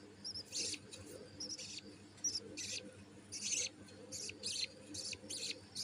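Budgerigar chick making begging calls while its mother feeds it: short, high cheeps repeated about twice a second, unevenly spaced.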